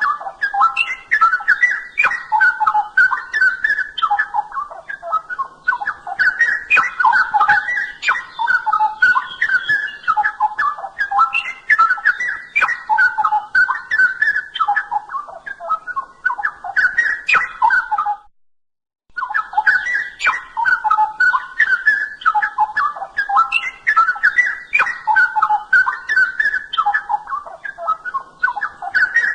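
Straw-headed bulbul (cucak rowo) singing continuously in rich, rapid warbled phrases. The song breaks off for about a second two-thirds of the way through, then resumes.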